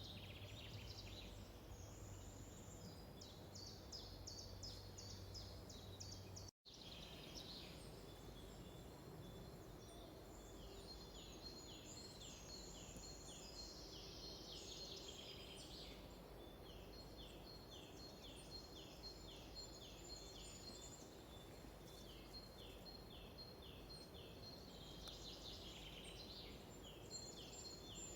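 Wild songbirds singing faintly in woodland: series of short, high notes repeated a few times a second, falling notes in runs, and trills, with more than one bird overlapping. The sound cuts out completely for a moment about six seconds in, then resumes.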